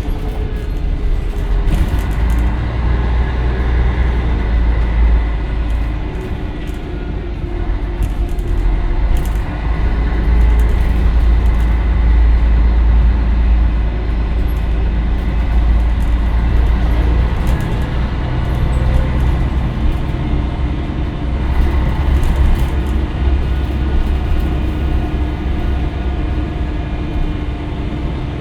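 Scania L113CRL bus's 11-litre six-cylinder diesel running under way. The low engine note swells and eases several times as the bus pulls away and slows, with scattered light clicks.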